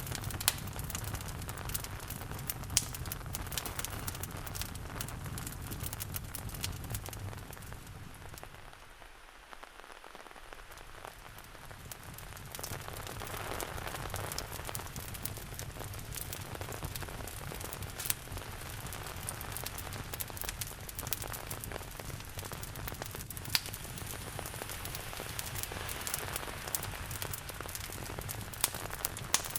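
Steady rain with a wood fire crackling and popping in sharp, scattered clicks. The whole sound dips for a few seconds about nine seconds in, then swells back.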